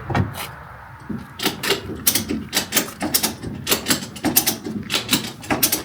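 A string of irregular sharp clicks and knocks, a few a second, starting about a second and a half in.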